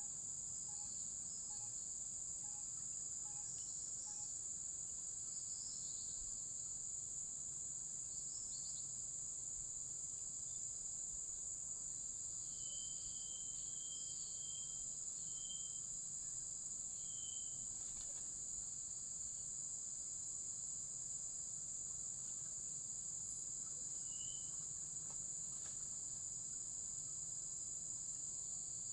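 Crickets chirping in a steady, high-pitched chorus. A run of short separate chirps joins in around the middle, and one more comes later.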